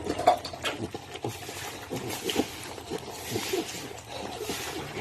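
Pigs in a pen making short grunts, with irregular clicks, knocks and splashing of water as they drink and feed.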